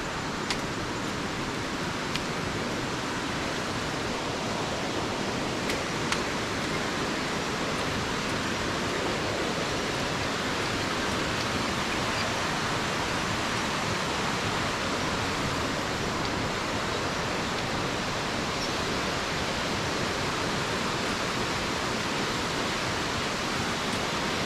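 Waterfall rushing, a steady even roar of falling water, with a few light clicks in the first several seconds.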